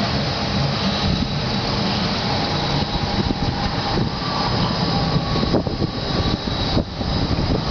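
Electric tram running, a steady rumble with a thin high whine over it and a few light knocks.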